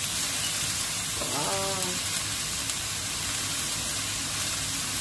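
Vegetables and egg noodles sizzling in a hot oiled wok during a stir-fry: a steady hiss.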